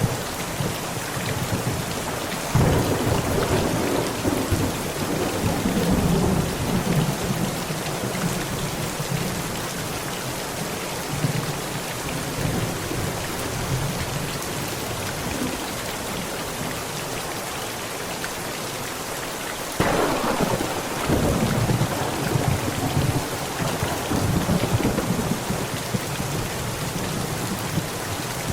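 Heavy rain pounding steadily on a tent, with two thunderclaps that break suddenly and roll on for several seconds: one a few seconds in, and another about two-thirds of the way through.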